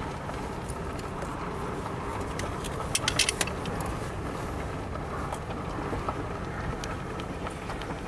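Steady road and engine noise heard from inside a moving vehicle, with a quick cluster of sharp clicks about three seconds in.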